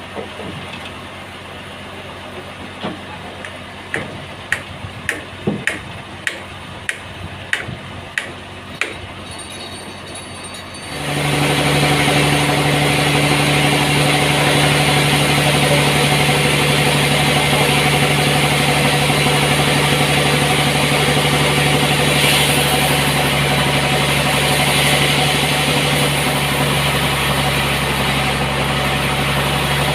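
A series of sharp knocks, about one or two a second, then about eleven seconds in the sawmill's engine starts up and runs steadily with a loud hum.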